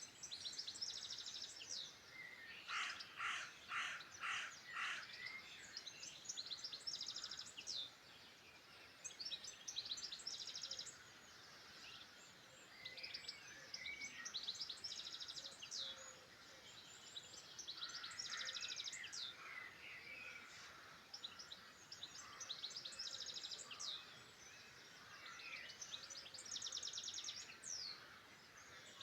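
Several wild birds singing at once, overlapping songs with fast high trills and chirps. A louder bird repeats one note about five times in quick succession a few seconds in.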